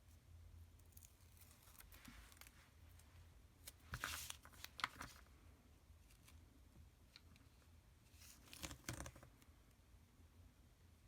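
Scissors trimming off excess craft material, heard as two short bursts of cutting and paper rustle with sharp snips, about four seconds in and again near nine seconds.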